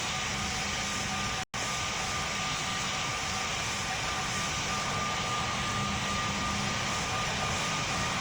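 Aircraft engine running steadily, an even rush with a steady high whine over it. It cuts out for an instant about one and a half seconds in.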